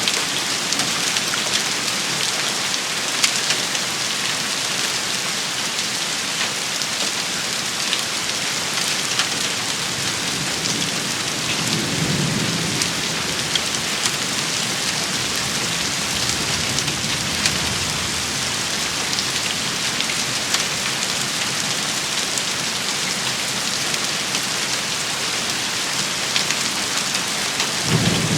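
Steady, heavy rain shower with scattered sharp ticks of drops striking a surface. Low thunder rumbles about twelve seconds in and again at the very end.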